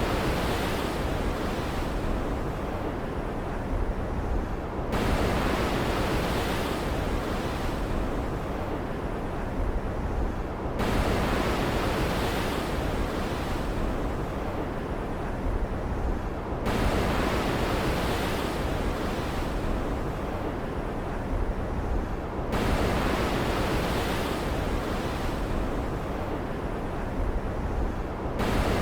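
Stormy ocean surf ambience: a steady rushing hiss of waves with a surge about every six seconds that comes in suddenly and brighter, then fades away.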